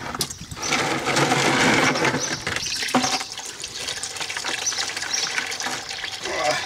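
Hot engine oil pouring from a tractor's sump drain into a bucket, a steady splashing stream, loudest in the first three seconds and then softer. A knock comes about three seconds in.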